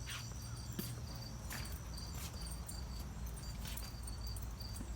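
Crickets chirping steadily, a high pulsed chirp repeating about three times a second over a continuous high trill, with a few soft scuffs of movement.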